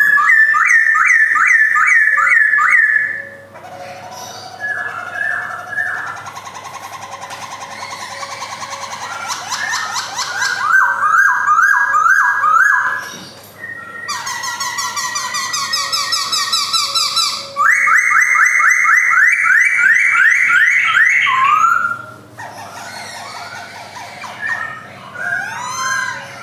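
Black-throated laughingthrush (Garrulax chinensis) singing loud, siren-like whistled phrases: runs of quickly repeated sliding notes at about four a second, with softer, lower warbling between the runs.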